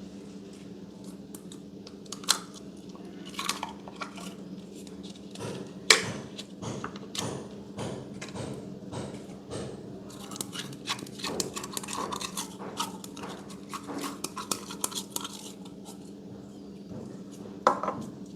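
Slime being squished and pressed by hand: a string of small sticky clicks, crackles and pops, thickest in the second half, with one sharper pop about six seconds in. A steady low hum runs underneath.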